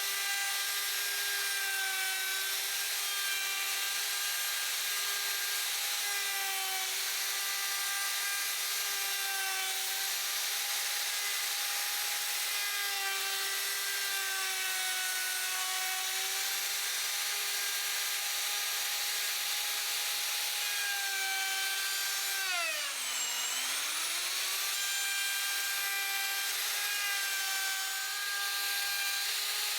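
A small power tool's motor running steadily while working wood, its pitch wavering slightly. About two-thirds of the way through it slows sharply under load, then spins back up.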